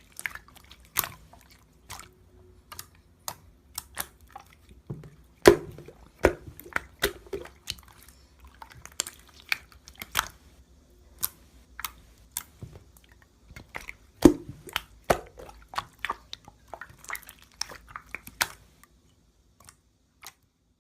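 Pink clear slime being squeezed and pressed by hand, giving irregular sticky clicks and small pops. The clicks stop shortly before the end.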